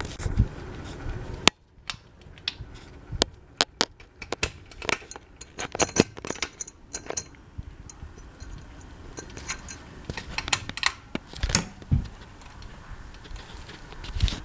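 Steady low running noise of a ceiling fan cuts off suddenly about a second and a half in. It is followed by a scatter of irregular sharp clicks and light metallic clinks, some with a short ring, and a few small knocks near the end.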